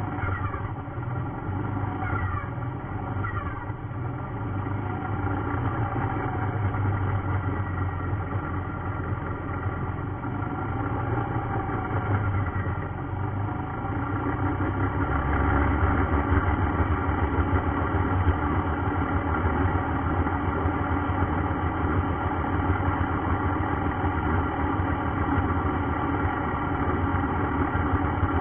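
The electric BMW E46's three-phase AC motor and inverter turning the driveline with the wheels off the ground. A steady whine of several tones, with a few pitch sweeps up and down early on, over a low rumble that gets louder about halfway through. It is a reduced-power test run through a heater-resistor current limit, with no oil in the gearbox.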